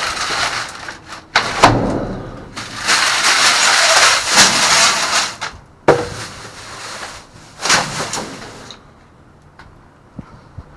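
Rummaging through trash in a dumpster: loud rustling and clattering in several bursts, with a sharp knock about six seconds in, then it goes quieter near the end.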